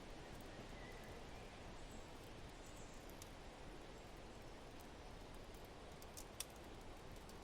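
Wood fire crackling softly, with occasional sharp pops (the loudest about six seconds in), over a steady faint hiss of wind and a few faint bird chirps.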